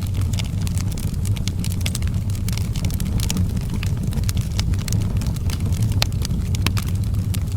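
Fire in an outdoor fireplace crackling, with frequent irregular sharp pops and snaps over a steady low rumble.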